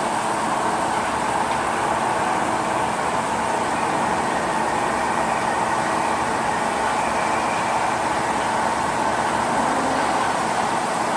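CNC lathe running with a steady, even machine noise that holds unchanged.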